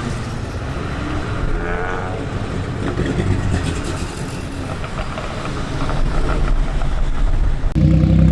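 Car engines running as traffic cruises by, a steady low rumble. About three-quarters of the way through, a much louder engine comes in suddenly close by.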